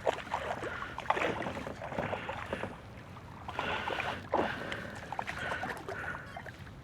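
Fishing reel cranked in four short bursts, an even whir, while playing a large smallmouth bass from a kayak. Sharp clicks and knocks of gear against the hull come in between.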